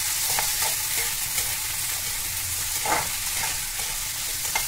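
Diced potatoes and onions sizzling in mustard oil in a steel kadai, stirred with a metal spatula that scrapes and clinks against the pan now and then, most strongly about three seconds in.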